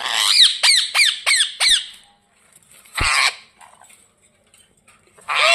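Indian ringneck parakeet squawking angrily: a rapid run of about six sharp, high, down-sweeping shrieks within two seconds, then a single short harsh burst about three seconds in.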